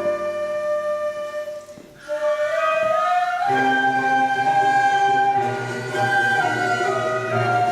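Korean traditional music ensemble playing a sustained melody. The sound thins briefly just before two seconds in, and a fuller ensemble with low notes comes in about three and a half seconds in.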